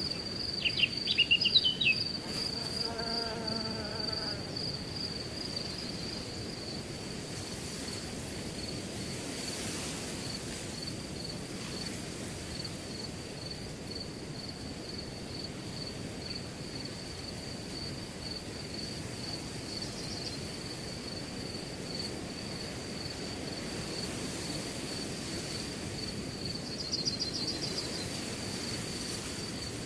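A cricket chirping steadily in a fast pulsed trill over a low rustle of wind in grass. About a second in, a bird's short chirps are the loudest sound, followed by a brief lower call.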